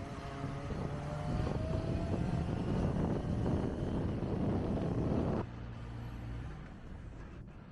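Kawasaki Ninja ZX-25R's four-cylinder engine running under way, rising in pitch and growing louder about a second in. A little after five seconds the sound drops off sharply to a quieter, steady low hum.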